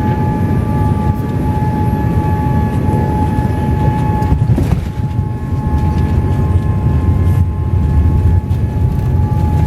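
Cabin noise of a Boeing 787-8 Dreamliner in flight: a steady rumble of jet engines and airflow with a steady whine over it, which shifts slightly in pitch about halfway through.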